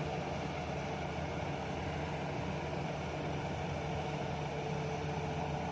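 Heavy diesel mining machinery running steadily at idle during coal loading: a low, even engine hum with no clear impacts.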